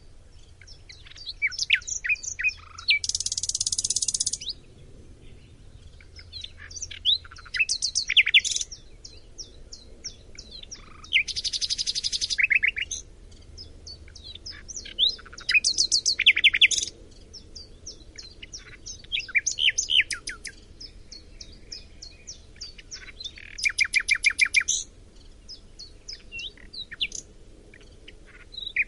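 A Chinese hwamei (họa mi) singing loudly in phrases of one to two seconds with short pauses between them. Each phrase strings together rapid repeated whistled notes, and some end in dense buzzy trills.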